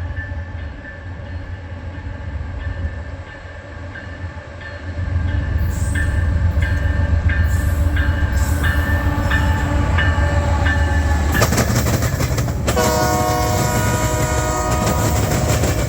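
Diesel locomotives of a southbound freight train working hard under load as they approach, a steady low rumble with a bell dinging about two to three times a second. About eleven seconds in the train's noise swells as it arrives, and near the end a multi-chime locomotive horn sounds.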